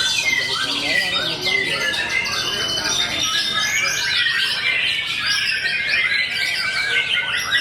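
Many caged songbirds singing at once: a dense, unbroken tangle of overlapping chirps, trills and whistles.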